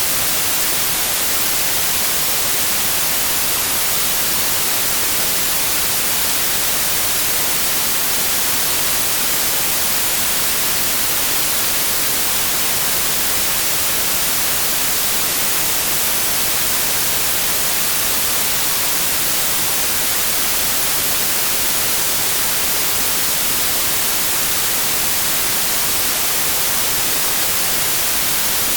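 Pure synthetic white noise with a flat spectrum: a steady, even hiss that does not change.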